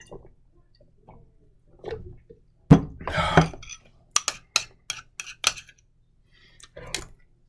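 Spoon clinking and scraping against a mustard jar: a sharp knock, then about halfway through a quick run of some seven clinks.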